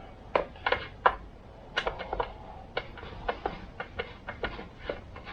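Irregular light clicks and clinks of small metal tools and chainsaw parts being handled and set down, about fifteen in a few seconds.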